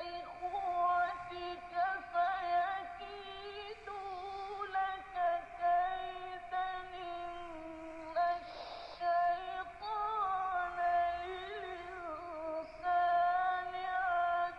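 A single voice chanting long held notes with wavering melismatic ornaments and brief pauses, in the style of Quranic recitation.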